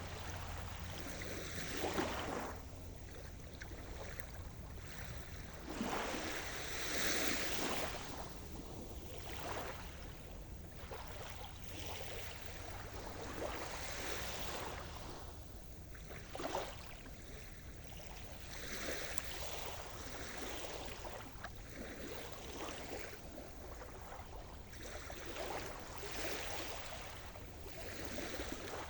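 Sea surf: waves washing in one after another, a hiss that swells and falls back every few seconds, the strongest about two seconds in and around six to seven seconds in.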